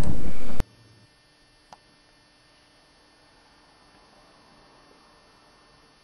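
A loud sound cuts off abruptly about half a second in, leaving near silence with a faint steady electrical hum and a single small click.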